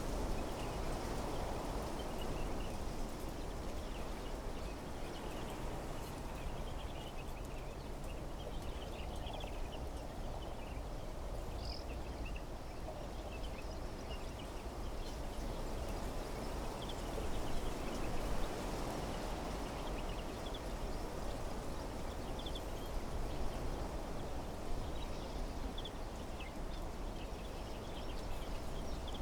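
Wind blowing steadily through trees, with gentle gusts, and small birds chirping faintly and intermittently over it.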